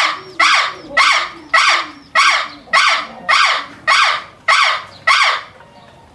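A bird giving a steady series of harsh, raspy calls, about two a second, ten in all.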